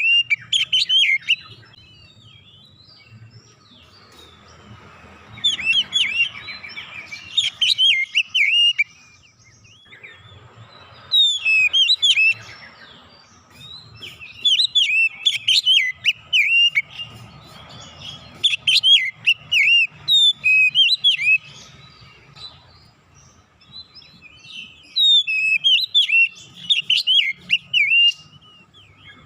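Oriental magpie-robin (kacer) singing in about six bursts of rapid, varied whistled phrases, separated by short pauses.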